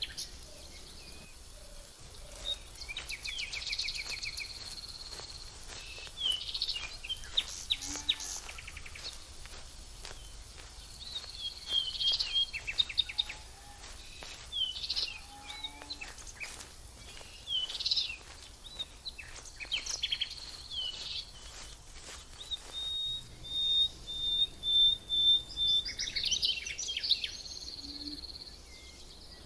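Several small songbirds singing and calling in quick succession: high chirps, short whistles and buzzy trills. In the last third one bird gives a long trill of rapid, even notes.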